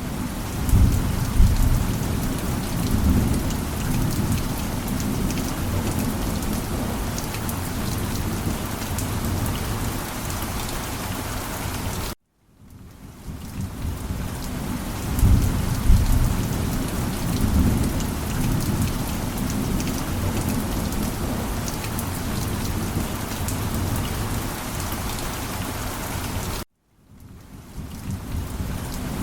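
Steady heavy rain with low rolling thunder, the rumble swelling about a second in and again about fifteen seconds in. Twice the sound cuts out abruptly, goes briefly silent and fades back in.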